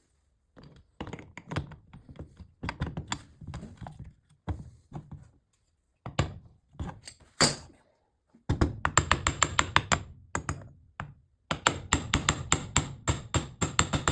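Workshop handling of the Hilti TE 70 ATC rotary hammer's parts: irregular knocks and taps of tool on metal, then two runs of rapid, evenly spaced clicks, about seven a second, in the last few seconds.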